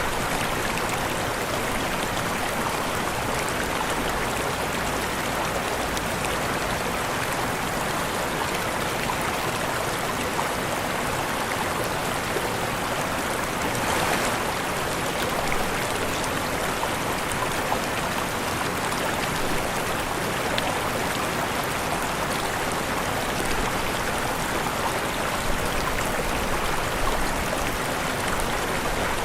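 Waterfall rushing steadily: an even, unbroken wash of falling water with faint splashes.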